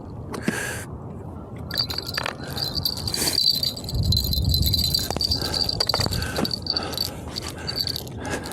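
A small metal bell jingling steadily, like a fishing-rod bite bell, over scattered clicks and knocks from handling the gear.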